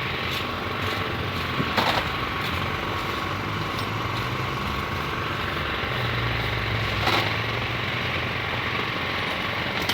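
An engine running steadily with a low hum, with two sharp knocks, about two seconds in and again near seven seconds.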